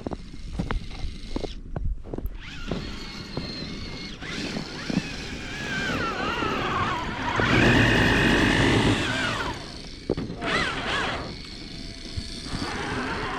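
Electric motor of a radio-controlled truck whining as the throttle is worked, its pitch rising and falling, loudest about halfway through. A few scattered clicks and knocks come in the first couple of seconds.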